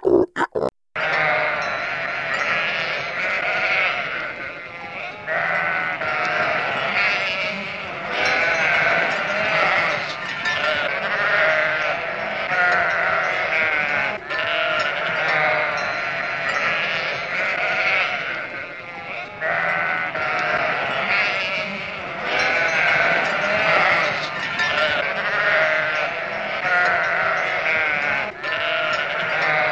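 A flock of sheep bleating, many wavering calls overlapping without a break. In the first second, before a sudden cut, a pig grunts a few times.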